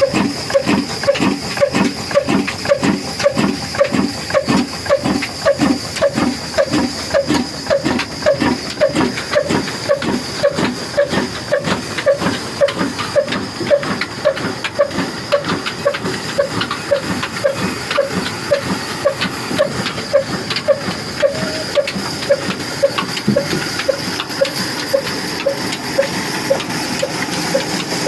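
Old Ruston engine running at a slow, steady speed, with an even beat of about two strokes a second over a constant hiss.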